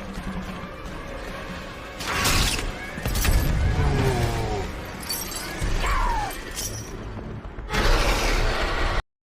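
Documentary soundtrack of music with repeated crashing impacts and short creature calls from a prehistoric-animal scene. The sound cuts off abruptly near the end.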